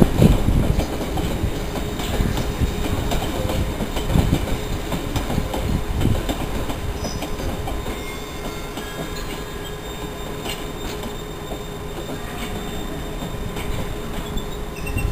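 London Underground District line train running slowly along the track, its wheels clattering over the rail joints and points. The clatter is loudest in the first half and eases after about eight seconds, when a faint high wheel squeal comes in.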